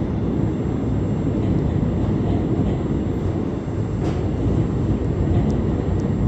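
Running noise of a moving passenger train heard from inside the carriage: a steady low rumble of wheels on track, with a few faint ticks in the second half.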